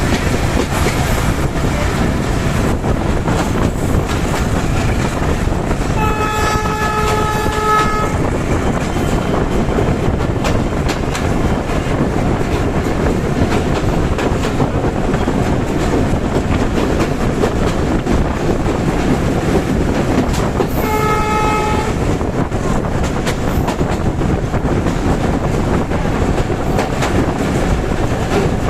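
Tungipara Express passenger train running on the rails with a steady rumble and clatter of wheels. Its horn sounds twice: a blast of about two seconds around six seconds in, and a shorter one of about a second around twenty-one seconds in.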